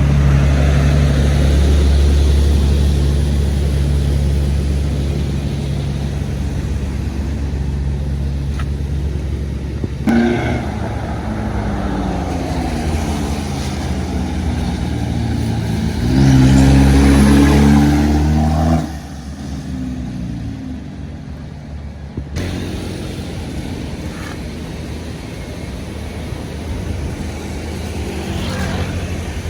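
Heavy road vehicles' engines passing: a loud low engine drone at first, then engines revving with pitch rising and falling about ten seconds in and again, loudest, from about sixteen to nineteen seconds, where it drops off sharply.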